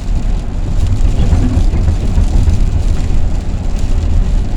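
Steady low rumble of a van on the move, engine and road noise heard from inside the cab.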